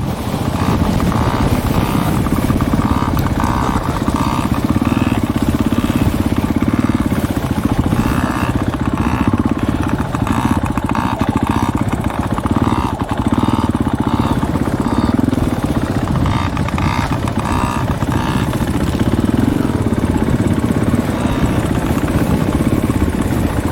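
Dirt bike engine running steadily at close range.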